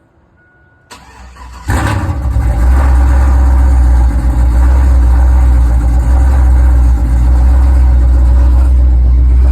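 Car engine starting about a second in, catching sharply and then running steadily with a loud low rumble.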